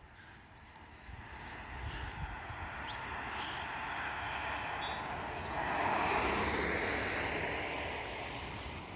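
A car passing on the street, its tyre and engine noise swelling to a peak about six seconds in and then fading away.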